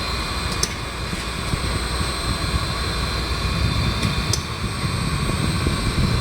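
Railroad turntable, driven by a 25-horsepower motor, turning a locomotive: a steady mechanical drone and hiss with a low rumble and a couple of faint clicks.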